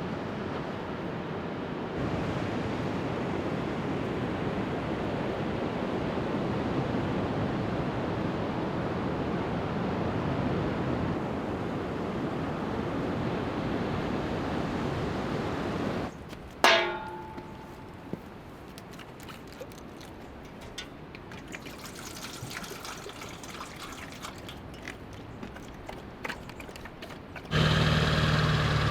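A steady rush of surf for about sixteen seconds. Then a single sharp clang that rings briefly, a quieter stretch of small clicks, and near the end the steady hum of a truck engine.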